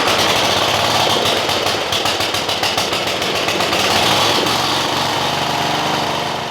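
Gilson garden tractor engine running loud and steady just after catching, then shutting off at the end.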